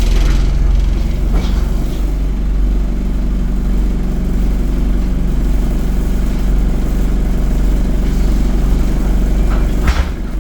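ADL Enviro 200 bus's diesel engine running steadily, heard from on board, with a short knock near the end.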